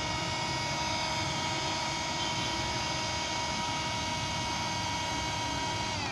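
Michelin MCV7.4 handheld rechargeable vacuum cleaner running steadily with a high motor whine over a rush of air, then switched off near the end, its pitch falling as the motor spins down.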